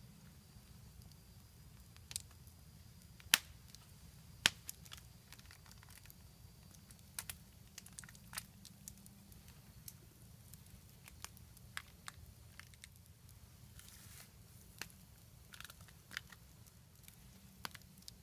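Campfire crackling: irregular sharp pops and snaps, the loudest two about three and four and a half seconds in, over a low steady rumble.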